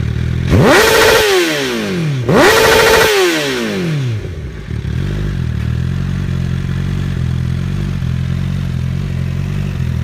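Honda CBR1000RR SP's inline-four engine through a full Akrapovic exhaust, blipped twice in quick succession: each rev climbs sharply, holds for a moment and falls away. The engine then settles back to a steady idle.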